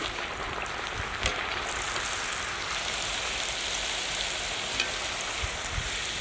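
Snack dough deep-frying in hot oil in a kadai: a dense, steady sizzle and crackle, with a few light clicks.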